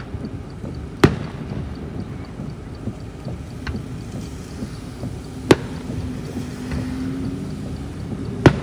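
Aerial firework shells bursting: sharp bangs about a second in, midway and near the end, with a fainter pop between the first two. The last bang is the loudest. A low, steady rumble runs underneath.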